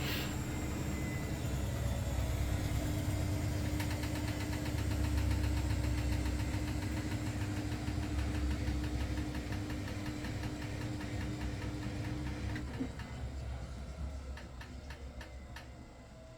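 Miele front-loading washing machines at the end of their final spin: a steady low drone with a held hum. About three-quarters of the way through the hum cuts off and the drum coasts down, the sound fading away with some light ticking near the end.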